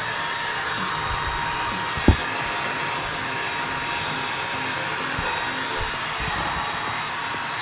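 Orfeld cordless stick vacuum running steadily with a hissing whine, working over construction debris, with a single sharp click about two seconds in.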